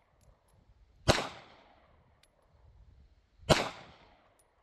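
Two handgun shots about two and a half seconds apart, each sharp crack followed by a short echo dying away.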